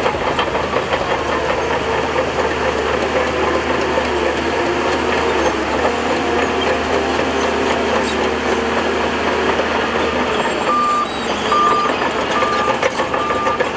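Heavy earthmoving machinery engine running steadily under load. About two-thirds of the way through, a reversing alarm starts beeping at a steady pitch, roughly once every 0.8 seconds.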